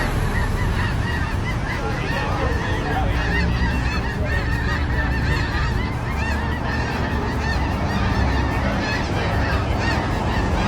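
A large flock of birds calling all at once: a dense chorus of many short, overlapping calls over a steady low rumble.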